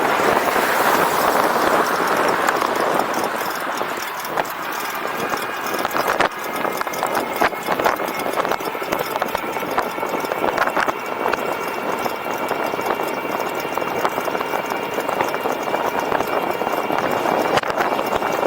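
E-bike ride noise: a steady rush of wind and tyres with scattered clattering knocks from the bike rattling over bumps. A faint steady whine joins from about eight seconds in.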